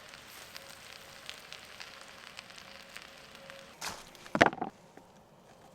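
Campfire crackling and popping with a steady hiss from the burning wood and coals. About four seconds in comes a brief loud knock and rustle, after which the hiss drops off.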